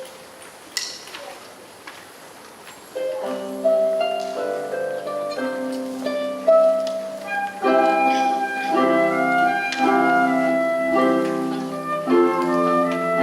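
A few faint knocks, then about three seconds in a harp begins plucking an Irish folk tune, with a flute joining in the middle.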